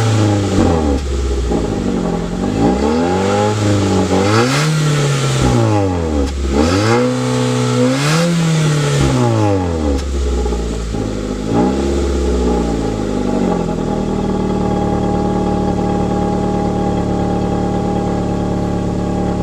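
Exhaust of a 2004 Nissan Sentra's 1.8-litre QG18DE four-cylinder engine being revved several times in quick succession, each rev rising and falling back. It then settles to a steady idle about two-thirds of the way through.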